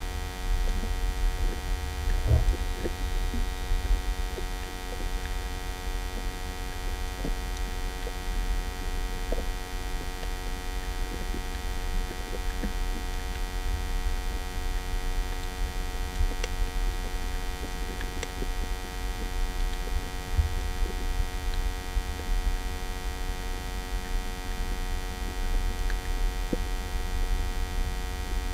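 Muffled low rumble of water heard through an underwater camera, with a faint steady hum and a few scattered faint clicks.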